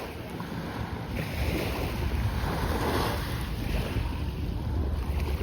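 Small sea waves washing onto the beach, one swell of surf rising and falling around the middle, with wind buffeting the microphone underneath.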